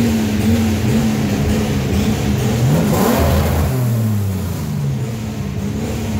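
Chevrolet Opala Comodoro's engine running as the car rolls slowly past, with a throttle blip about three seconds in whose pitch rises and then falls away.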